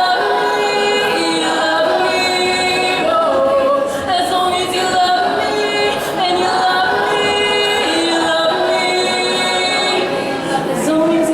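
Two female voices singing, holding long notes that step up and down in pitch.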